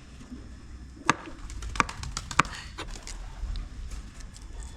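Knife chopping on a cutting board while chicken is being prepared: three sharp strikes about a second in, with lighter taps between and after.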